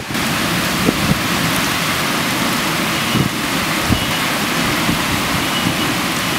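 Heavy thunderstorm downpour: a steady, dense hiss of rain that sets in abruptly, with a few soft knocks of drops striking nearby surfaces.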